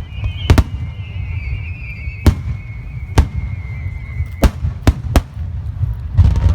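Fireworks shells bursting in a starmine barrage: a sharp bang about every second over a continuous low rumble, with a high wavering tone through the first part. A louder, denser volley of bursts comes near the end.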